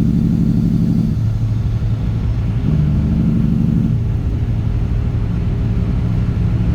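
Straight-piped Caterpillar C15 ACERT inline-six diesel running on the road. Its note thins out about a second in, swells again briefly around the middle, then drops back.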